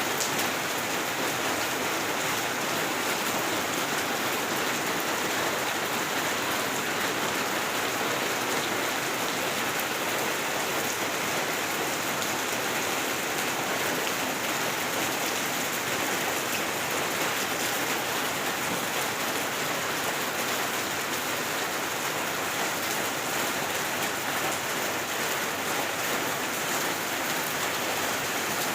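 Steady rain falling, an even hiss that holds at the same strength throughout.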